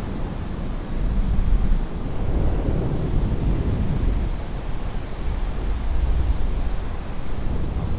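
Wind rushing over the microphone in an engine-off paramotor glide: a low rumble that swells and eases every second or two, with no engine running.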